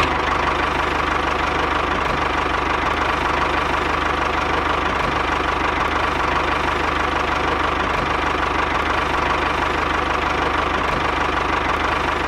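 An engine idling steadily, with a fast, even knock.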